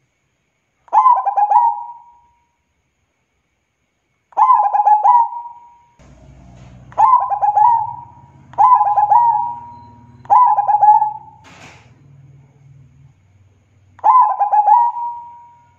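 Zebra dove (perkutut) cooing: six phrases, each a quick stutter of short notes that ends in a held note, a second or more apart. A faint low hum sits under the middle phrases.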